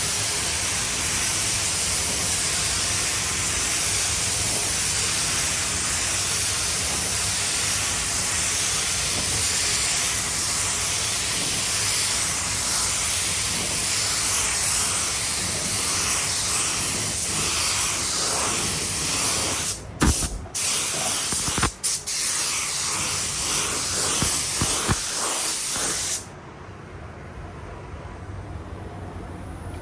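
Compressed-air paint spray gun hissing steadily as it sprays a car body. The spray cuts out briefly twice about twenty seconds in and stops about twenty-six seconds in.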